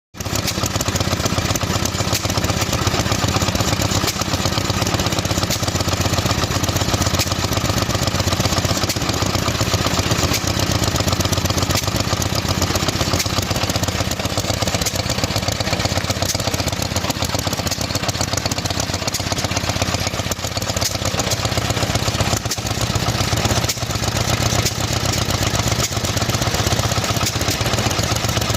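Vintage British stationary engine running steadily with a rapid, even knocking beat.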